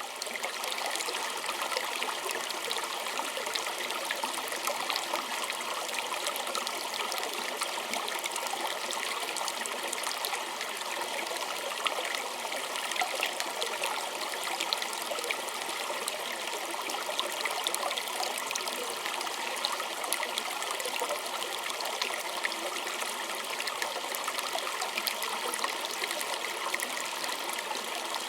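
Small creek water trickling and splashing over stones, a steady babbling with many small droplet splashes.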